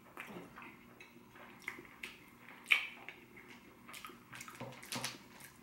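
Close-up wet chewing and mouth smacks of a man eating a soft, pasty burrito filling, with the clicks of a metal fork digging into the burrito. The sounds come as scattered short smacks and clicks, one louder one about halfway through.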